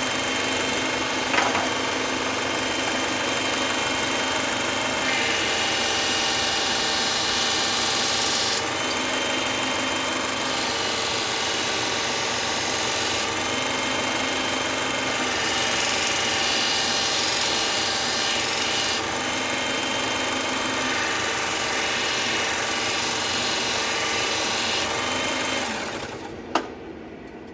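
Powered knife sharpener running steadily while a blade is worked against it in passes of a few seconds each, the tone shifting as the knife changes side or position. The machine winds down near the end, with a sharp click.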